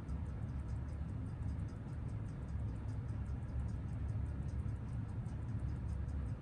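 Seiko 6139 automatic chronograph movement ticking in fast, even beats, over a steady low hum. The movement is freshly serviced, and its amplitude is settling in as the lubrication spreads.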